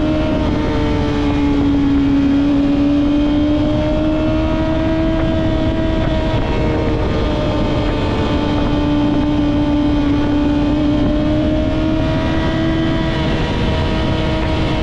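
Yamaha R6 inline-four with a Two Brothers full-system exhaust, ridden at fairly steady high revs, the pitch drifting gently up and down as the throttle eases on and off, with wind rushing over the microphone.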